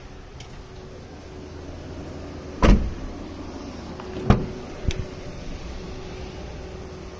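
Three sharp thumps over a steady low hum: a loud one about two and a half seconds in, a second about a second and a half later, and a lighter one just after it.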